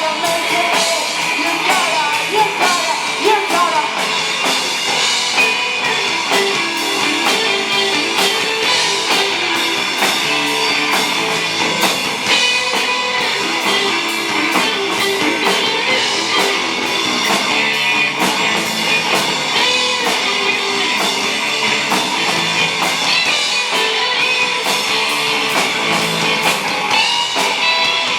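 Rock band playing live, with electric guitars and a drum kit keeping a steady beat.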